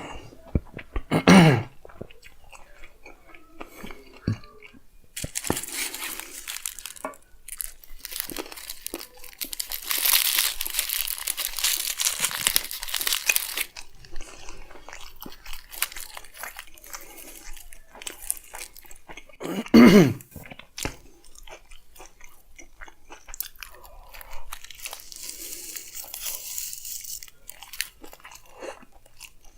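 Close-up chewing and biting of a chicken frankie wrap, with long stretches of crackly, crunchy noise. Two short loud sounds with a falling pitch break in, about a second in and again about twenty seconds in.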